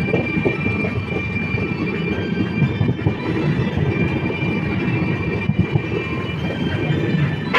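Passenger train running at speed, heard from on board: a steady low rumble of wheels on rails with a few faint knocks. A thin high squeal from the wheels comes and goes above it.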